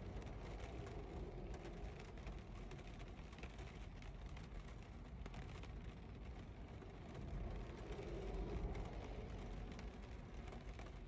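Rain falling on a car's windows: a steady hiss of many small drop ticks over a low rumble, which swells about eight seconds in.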